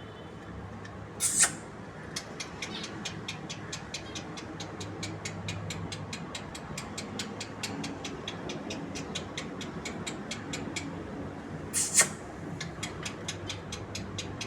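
Lovebirds calling: two short, loud, shrill screeches, one about a second in and one near the end. Between them runs a rapid even series of short high ticks, about four a second, over a steady low hum.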